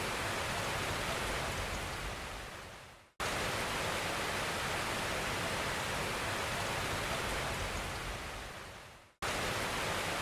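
Steady, even hiss like rushing water or rain, with no tone or rhythm in it. It fades out to silence twice, at about 3 and 9 seconds, and cuts straight back in each time, like a looped background noise track.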